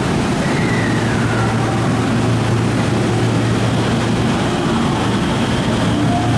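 Electric train at the platform: a steady low electrical hum with a whine that glides down in pitch early on and another that begins rising near the end, typical of traction motors and inverters as the train slows and pulls away.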